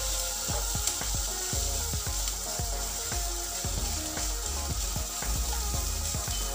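Sliced onions sizzling as they fry in butter in a nonstick pan, stirred with a silicone spatula, over background music.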